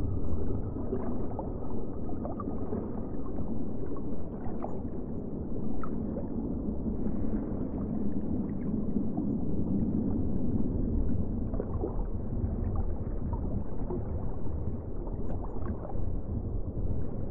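Steady, low sea-water noise with a few faint splashes scattered through it.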